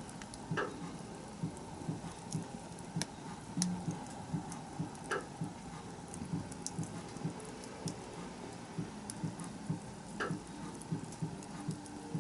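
Backyard wood bonfire crackling, with irregular sharp pops scattered through a soft, fluttering burn.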